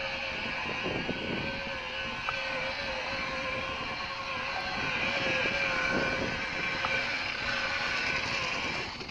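Motorboat engine running steadily, growing a little louder about halfway through.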